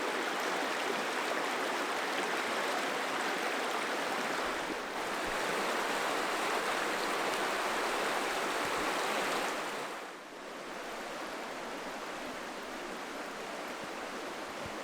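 Rushing water of river rapids, a steady hiss that drops a little in level about ten seconds in.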